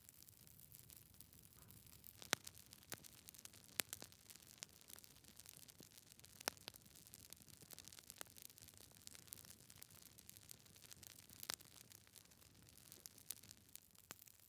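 Wood burning in a fireplace: logs crackling with irregular sharp pops over a faint hiss, a few pops much louder than the rest.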